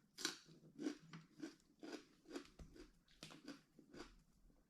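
A person chewing crunchy food, likely raw side vegetables, close to the microphone. The bites and crunches come in a regular rhythm of about two a second, faint overall.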